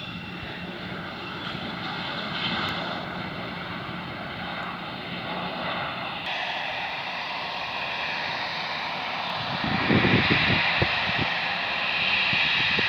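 Airbus A321 jet engines running, a steady roar with high whining fan tones that grows louder about ten seconds in. Low gusty rumbles come in near the end.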